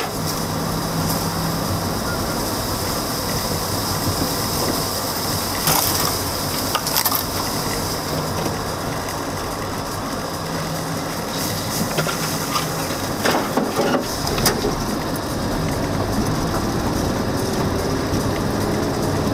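Car creeping along a rough unpaved track, its tyres crunching over gravel and debris under a steady engine hum. Scattered knocks and scrapes come through, heaviest a little past halfway.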